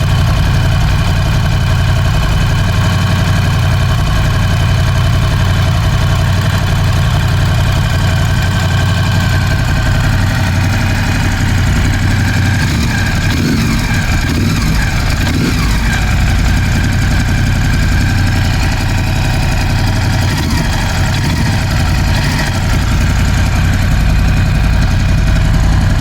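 Ducati Scrambler 1100's air-cooled L-twin engine idling steadily, with piston slap still present after the horizontal cylinder and piston were replaced.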